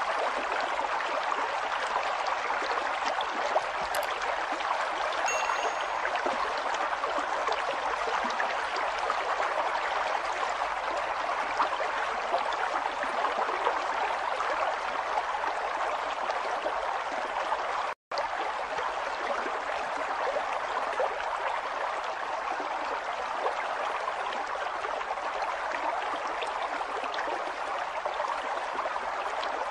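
River water flowing over rocks: a steady, dense rush with fine bubbling and gurgling. It briefly cuts out once, for a split second, a little past the middle.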